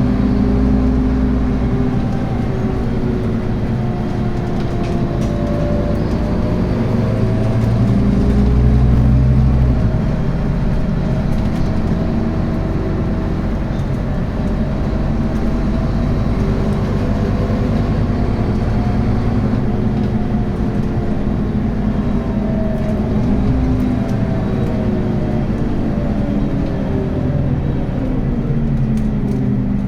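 Scania N280UB city bus diesel engine with ZF Ecomat automatic gearbox running under way, its note rising and falling several times as the bus accelerates and slows; loudest about a third of the way through.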